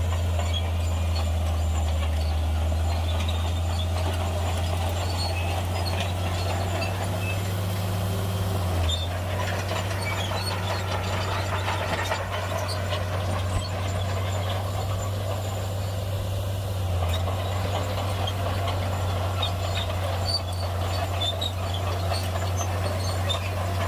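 Shantui bulldozer's diesel engine running with a steady low drone, with scattered faint ticks and clinks over it.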